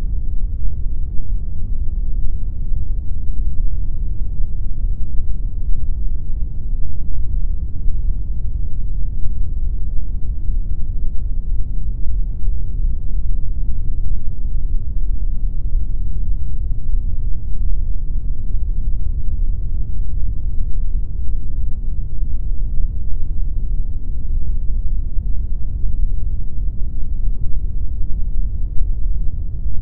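Generated pink noise: a steady, unchanging deep hiss with its weight in the low end and little above the upper mids.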